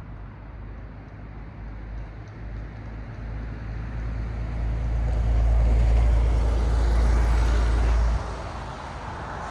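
A motor vehicle approaching and passing on the road, its tyre and engine noise swelling to a peak about six to eight seconds in. A deep low rumble beneath it cuts off suddenly about eight seconds in.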